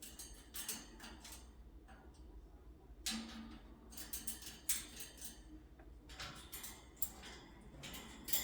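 Congo African grey parrot climbing about her wire cage: scattered light clicks and clinks, a few a second apart, of the bird gripping the bars and perches.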